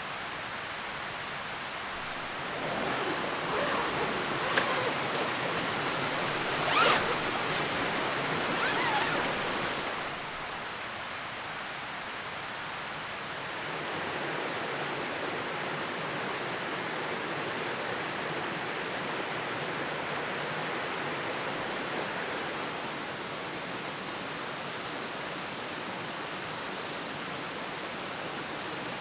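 Steady rushing outdoor noise, with a louder stretch of rustling and a couple of sharp knocks from about three to ten seconds in.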